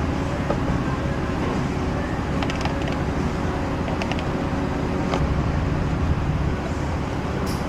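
Steady low mechanical rumble with a faint hum, with a few light clicks and taps over it.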